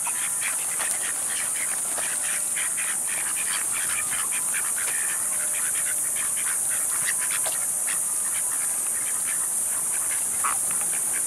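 Ducks and other birds calling in many short, scattered calls over a steady, high-pitched insect drone.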